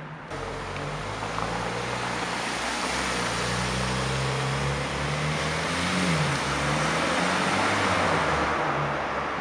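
Porsche 911 Turbo S twin-turbocharged flat-six pulling away at low revs up a garage ramp. The engine note rises briefly about six seconds in, then settles again.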